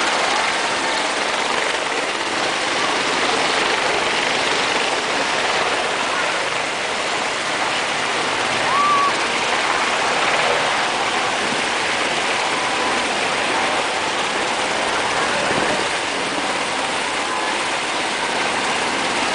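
Black Hawk helicopters flying over: a steady rushing turbine and rotor noise.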